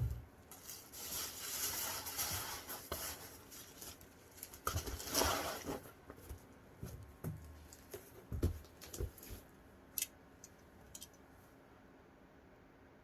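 Books and their packaging being handled: two stretches of crinkly rustling, then scattered soft thumps and a couple of light clicks.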